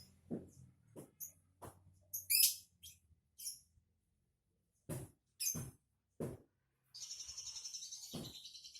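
A caged songbird gives scattered short chirps, then breaks into a rapid, continuous twittering about seven seconds in.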